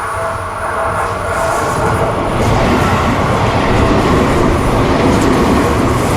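Train running past, a dense rumble of wheels on rails that grows louder over the first two or three seconds and then holds steady.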